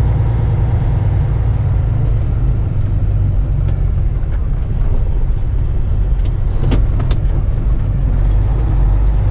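Heavy-haul semi truck's diesel engine running steadily at low speed, a deep, even rumble heard from the cab. Two short clicks come about seven seconds in.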